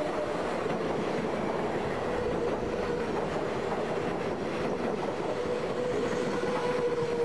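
Train passing at speed: a steady rumble and rattle of wheels on rails, with a faint steady tone running through it.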